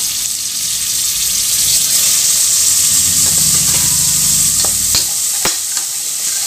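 Onions, tomatoes and green chillies sizzling in hot oil in an aluminium pressure cooker, a steady hiss. Near the end a perforated steel ladle stirs them, clinking against the pot a few times.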